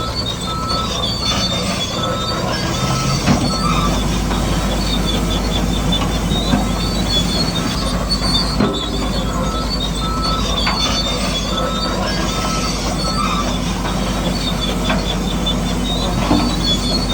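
A radio-controlled model bulldozer working, with its drive gears and tracks squealing and grinding steadily in short repeating high squeaks. There are occasional sharp clicks and knocks, and a low motor hum that gets louder a few seconds in.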